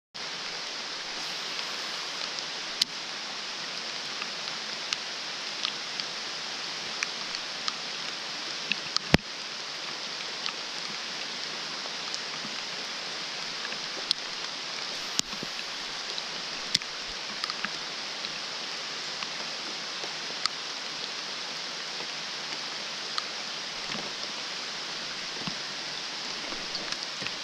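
Pouring rain falling steadily, an even hiss dotted with many sharp ticks of single drops, one louder tap about nine seconds in.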